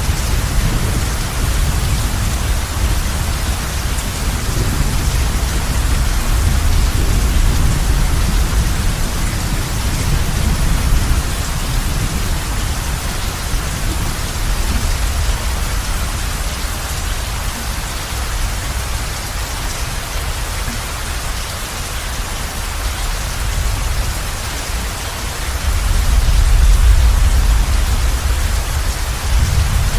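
Heavy rain falling on a roof, a steady dense hiss. Under it a low rumble of distant thunder comes and goes, swelling louder near the end.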